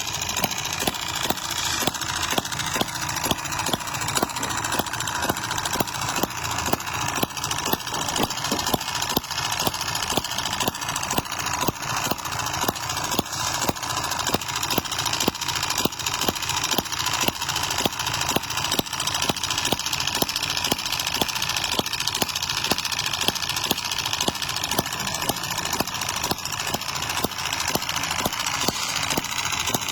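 A miniature single-cylinder gas engine model running steadily at idle, its firing strokes making a rapid, even train of clicks.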